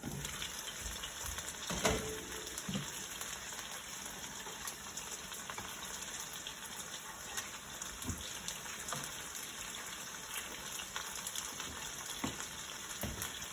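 Cornstarch-coated chicken pieces frying in hot oil in a pan, a steady sizzle, with a few light knocks as they are stirred and turned.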